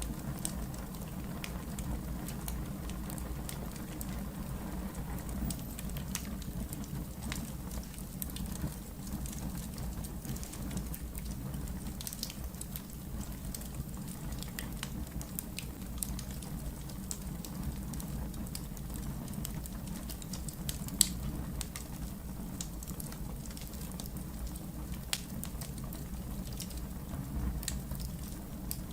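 Fireplace fire crackling, with irregular sharp pops over a steady low rumble and one louder pop about three-quarters of the way through.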